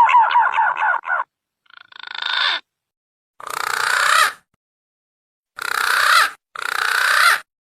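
Green pigeon (punai) calls used as a lure: a run of fluting, falling whistled notes ends about a second in, followed by four harsh, rasping notes, each swelling in loudness over about a second.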